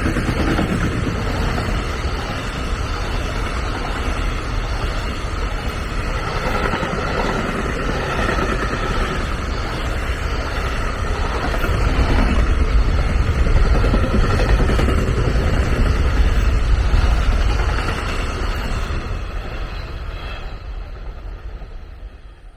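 A train running past, its rumble building to its loudest in the second half and then fading away near the end.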